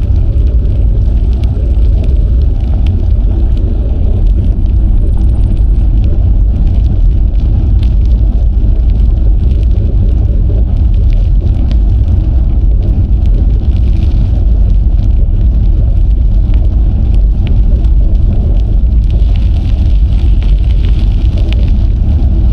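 Wind rumbling steadily on the microphone of an action camera while cycling, with scattered small ticks from the ride.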